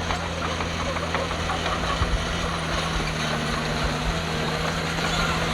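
Heavy diesel earthmoving engine running at a steady speed, with a few low thumps from about two seconds in.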